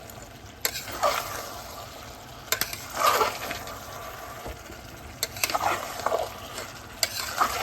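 Potatoes frying in hot oil in a pan with a steady sizzle, stirred and scraped with a spatula every couple of seconds, with a few sharp clinks of metal on the pan.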